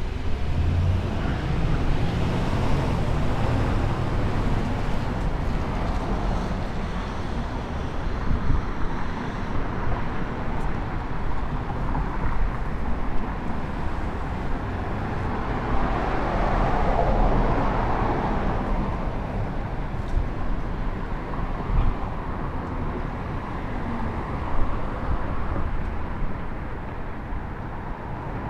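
Steady running rumble of a moving streetcar heard from inside the car, mixed with street traffic noise, growing a little louder for a few seconds about midway.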